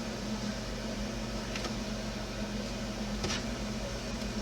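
Steady low electrical hum, with two faint clicks of small plastic parts as a pressure-fit light lens is worked into an RC truck's body, the second click sharper.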